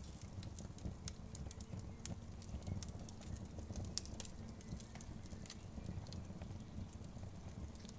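Wood fire crackling: irregular sharp pops and snaps over a steady low rumble, with the loudest snap about four seconds in.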